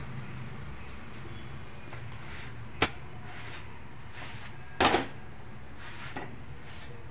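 Hands kneading and handling jowar bhakri dough on a stone countertop. There is a short sharp tap about three seconds in, a louder knock about five seconds in and a faint one just after six seconds, over a steady low hum.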